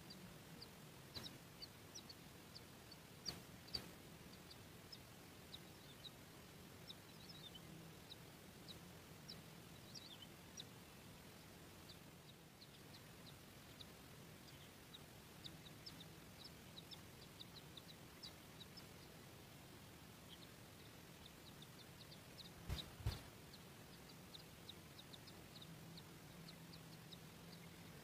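Faint, short, high bird chirps repeating irregularly over a low steady hum. Two pairs of sharp knocks come a few seconds in and again near the end.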